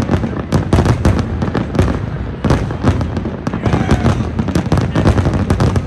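Aerial fireworks going off in a dense barrage: many sharp bangs and crackles a second over a continuous low rumble.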